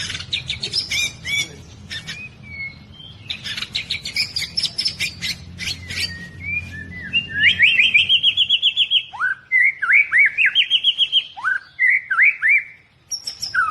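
Albino white-rumped shama (murai batu) singing: a fast run of clicking, rattling notes, then about seven seconds in a quick trill and a series of rising whistled notes.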